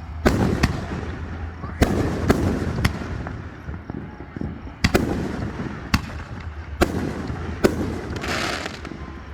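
Aerial fireworks shells bursting overhead: about nine sharp booms at irregular intervals, each trailing off in an echo. A brief crackling shower comes near the end.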